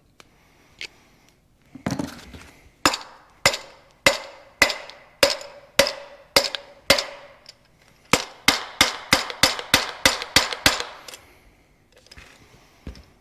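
Hammer blows on metal, ringing sharply: about nine steady strikes a little over half a second apart, then after a brief pause a quicker run of about a dozen strikes, then a light knock near the end. The blows are driving a rusted, stuck part out of a Lucas CAV DPA diesel injection pump, which then comes free.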